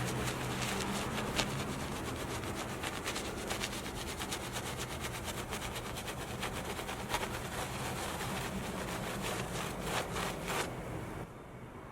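A stiff brush scrubbing a surface in quick repeated strokes over a low steady hum, stopping abruptly near the end.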